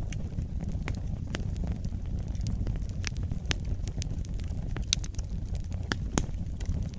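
Wood fire in a fireplace burning, a low steady rumble with frequent irregular crackles and pops.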